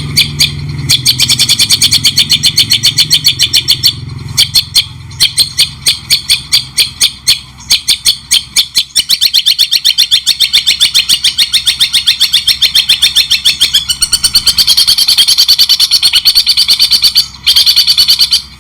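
Songbird masteran recording used to tutor cage birds: a fast, loud string of sharp, repeated chattering notes at several per second, with short pauses about four seconds in and near the end.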